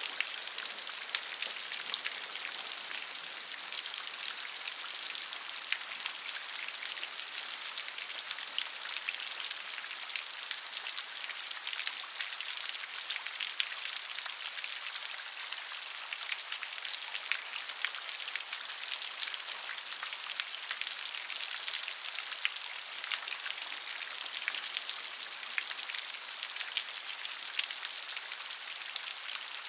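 Steady rain, a dense hiss of many small drops with fine individual ticks all through, and no thunder.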